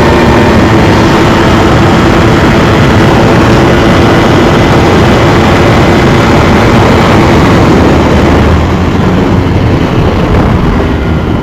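Sportbike engine running at speed under heavy wind rush, loud and steady, easing off a little in the last few seconds.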